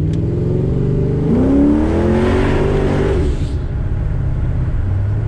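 Freshly cammed Holden VX Commodore's engine heard from inside the cabin. It cruises steadily, then about a second in it accelerates hard, its pitch climbing for about two seconds before it drops back as the driver eases off.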